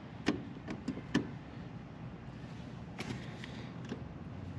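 A few sharp clicks and taps of a screwdriver and metal parts as terminal screws and wires are worked in an air-conditioner condenser's electrical panel, with the strongest near the start and a cluster about three seconds in.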